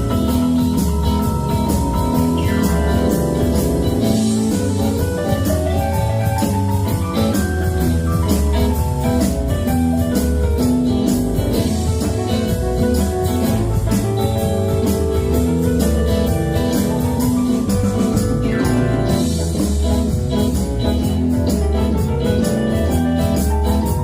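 Live band playing an instrumental passage: a drum kit keeps a steady beat under keyboard and bass, with no singing.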